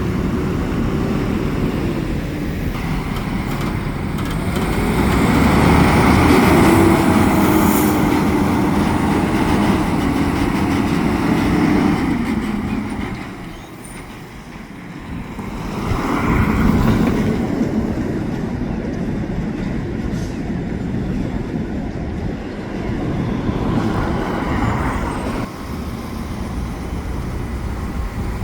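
Heavy vehicles driving past with engine and road noise. The sound builds to a long loud pass, drops briefly about halfway through, then a second vehicle passes.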